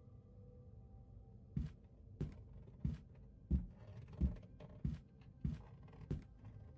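A series of eight evenly spaced thumps, about three every two seconds, starting about a second and a half in, over a faint steady hum.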